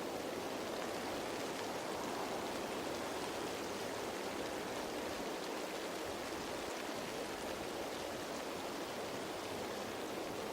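Steady rain falling on leaves: an even patter of many small drops that blends into a constant hiss.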